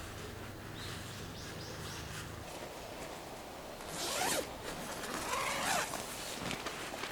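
A zipper pulled in two long strokes, a little over a second apart, typical of a tent or bag zipper being worked; before them a low steady hum cuts off.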